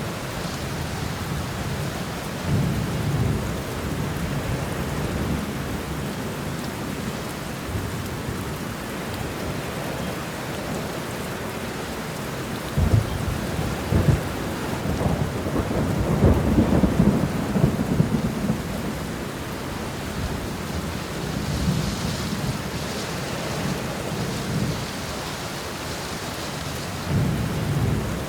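Steady rain falling, with thunder rumbling several times over it; about halfway through, two sharper claps run into a long rolling rumble.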